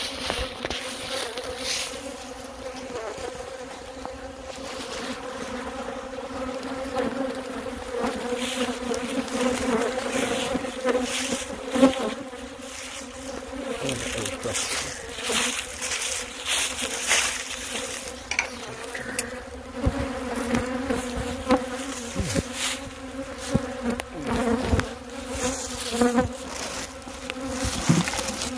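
Many honey bees buzzing close by in a steady hum, stirred up after their hive was taken apart. Frequent short rustles and knocks, one louder about twelve seconds in, sound over the hum.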